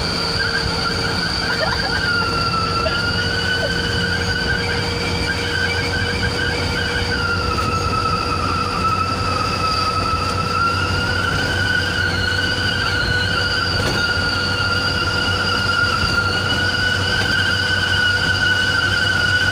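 Truck's wolf-howl whistle exhaust (knalpot serigala) sounding a sustained high howl of several whistle tones at once. The tones waver slowly up and down in pitch with engine speed, over the low drone of the diesel engine at highway speed.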